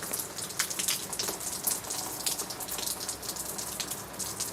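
Rain falling, with many separate drop hits ticking irregularly over a steady hiss.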